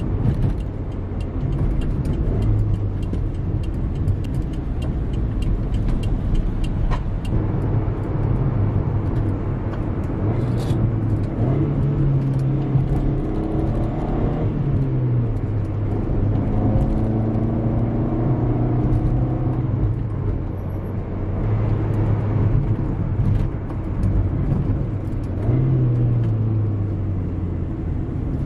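Manual car's engine and road noise heard inside the cabin, the engine pitch jumping up several times as the throttle is blipped during heel-and-toe downshifts to match revs.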